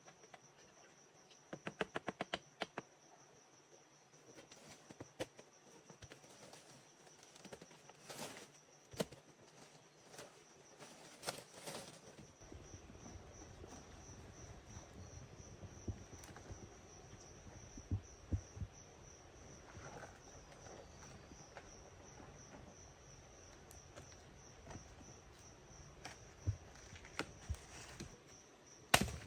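Insects trilling on one steady high, faintly pulsing note, with scattered sharp knocks and taps over it: a quick run of clicks about two seconds in and a louder knock near the end.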